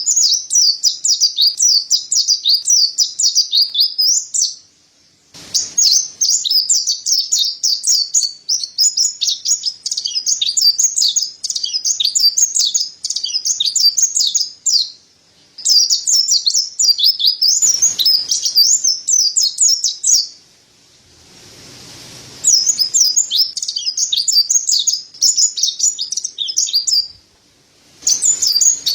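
Mountain white-eye (pleci dada putih, Zosterops montanus) singing a fast, high twittering song in long unbroken phrases, with short pauses about five, fifteen and twenty seconds in and again near the end.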